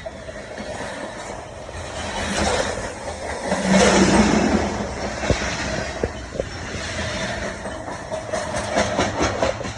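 A train passing, its rushing noise swelling to its loudest about four seconds in, with a run of rapid clicks near the end.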